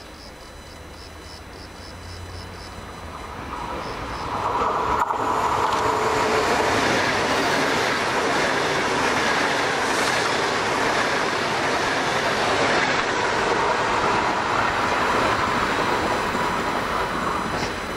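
Italian high-speed electric passenger train passing through a station at speed: a rush of wheel and rail noise that builds over a few seconds, then stays loud. Insects chirp faintly before the train arrives.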